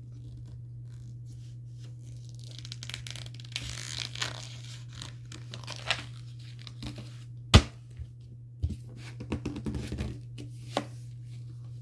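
Paper rustling and crinkling as a picture book's pages are handled, with one sharp knock past the middle and a few lighter taps after it, over a steady low hum.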